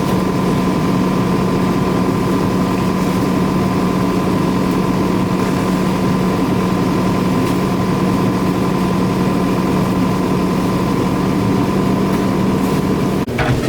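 An engine running steadily at one constant pitch, which stops abruptly just before the end, where irregular clicking and rattling begin.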